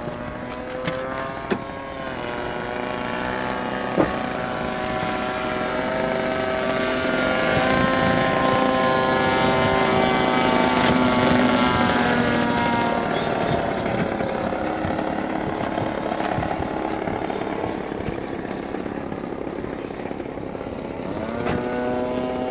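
A radio-controlled model airplane's motor running, its pitch and loudness rising and falling as it flies about, loudest about halfway through. A sharp click sounds about four seconds in.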